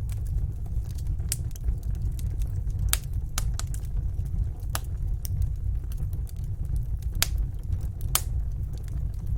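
Wood fire burning in a fireplace: irregular sharp pops and snaps every second or so over a steady low rumble of the flames.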